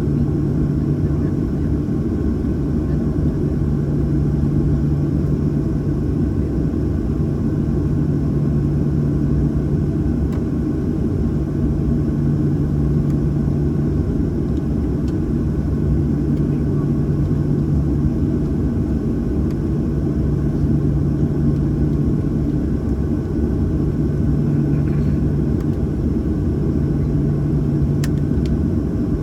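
Steady rumble inside the cabin of a Boeing 737-800, its CFM56-7B engines running evenly with a low hum and no change in pitch, heard from a window seat behind the wing.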